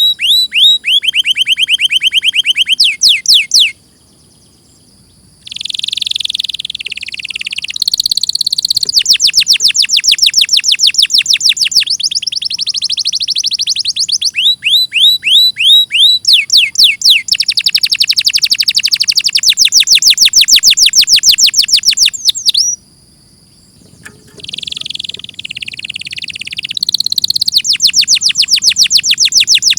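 Domestic canary singing: a long song of fast, loud trills, each a rapid string of repeated falling notes, switching to a new trill every few seconds. It breaks off for about two seconds twice, about 4 and 23 seconds in.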